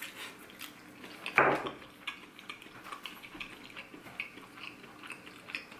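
Close-up eating sounds of a person biting and chewing a crispy deep-fried corn dog: many small crunchy clicks and crackles, with one louder crunch about a second and a half in.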